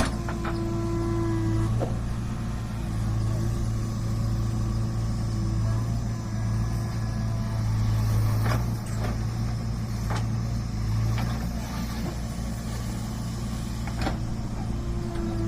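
Heavy diesel machinery engine running steadily at work, with a higher hum that comes and goes and a few sharp knocks.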